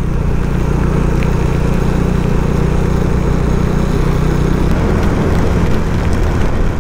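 Motorcycle engine running steadily at road speed under a rush of wind and rain noise. The engine note changes about five seconds in.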